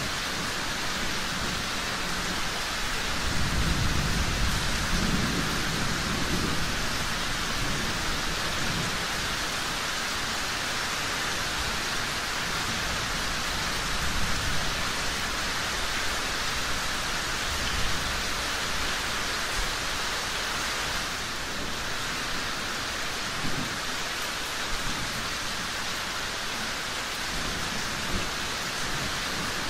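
Steady rain hissing, with a low thunder rumble swelling about three to seven seconds in. A few sharp pops from a crackling fireplace come now and then.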